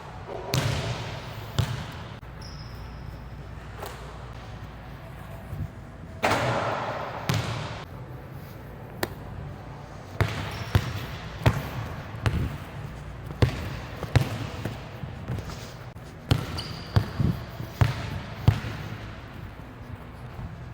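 A basketball being bounced on a hard court: about a dozen sharp bounces in the second half, one to two a second, after two longer bursts of noise early on.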